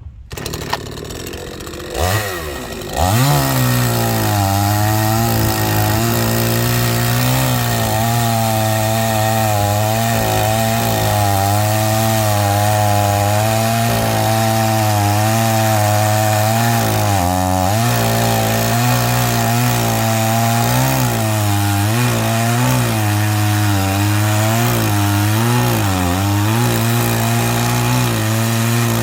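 Gasoline chainsaw being pull-started, catching about three seconds in, then running loudly, its engine pitch rising and falling repeatedly, with a brief drop about seventeen seconds in.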